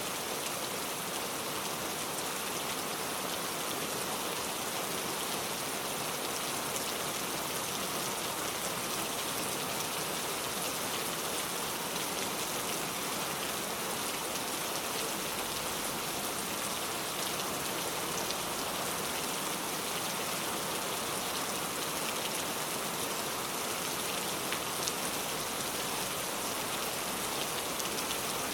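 Steady rain falling, an even hiss with many fine drop ticks pattering on a surface.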